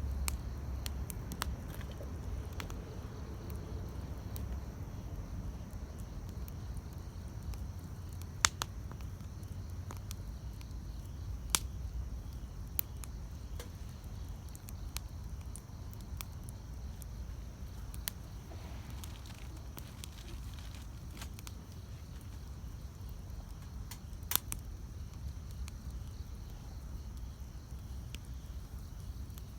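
Wood campfire burning: a low, steady rumble of flames with sparse sharp crackles and pops from the burning wood, the loudest pops about eight and a half, eleven and a half and twenty-four seconds in.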